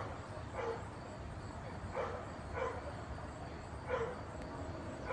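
A dog barking in pairs of short barks, a pair about every two seconds, over a steady low rumble.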